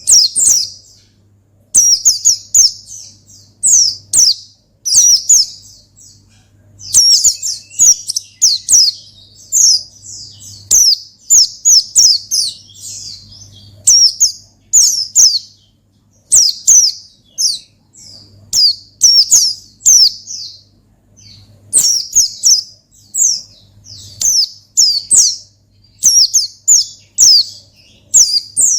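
White-eye (pleci) singing loud, rapid, high chirping phrases in bursts of a second or two with short pauses between them, over a faint steady low hum.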